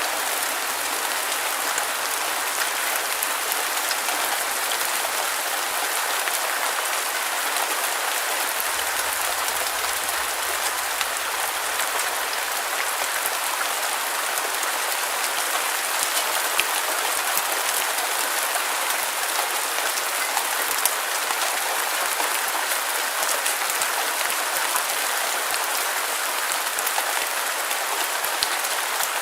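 Steady rainfall hiss with many small drop ticks, even in loudness throughout and a few louder single drops.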